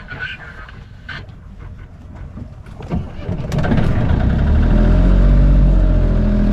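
A sailing yacht's auxiliary engine starting up a little over halfway through and then running steadily, ready for the sails to come down. Before it starts there is only faint wind and water noise.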